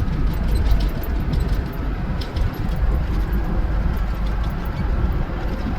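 Steady low rumble of a tow truck's engine and tyres, heard inside the cab while it drives at speed.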